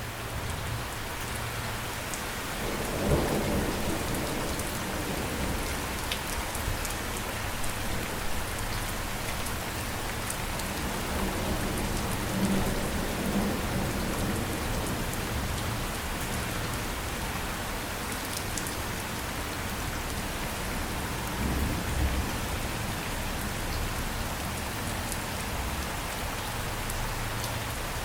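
Steady rain falling, with low rolling thunder rumbling three times: a few seconds in, near the middle, and late on.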